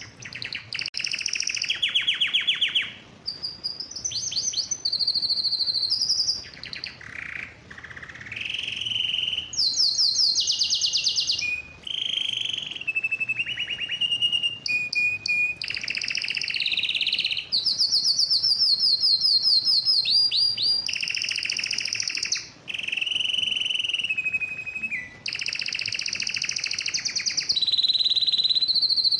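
Male domestic canary singing a long, almost continuous song of fast trills. Each rolled phrase lasts a second or two before it jumps to a higher or lower pitch, with only brief pauses between them.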